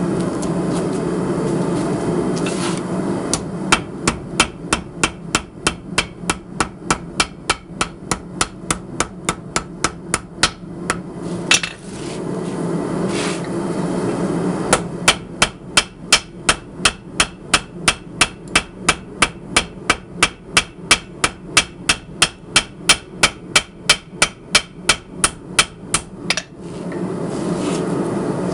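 Hand hammer blows on hot 52100 bearing steel at the anvil, drawing out a knife blade: two long runs of evenly spaced strikes, about two to three a second. Between the runs, at the start, in the middle and near the end, a steady low rushing noise.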